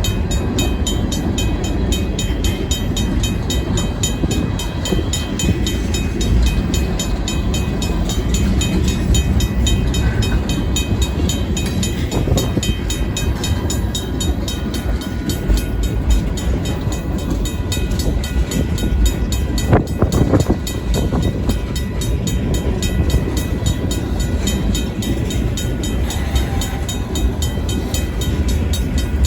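A Union Pacific local freight train rolling slowly through a grade crossing, a continuous heavy rumble of locomotive and cars. Over it the crossing's RACO mechanical bell rings with fast, even strokes, and there is a brief louder rattle about twenty seconds in.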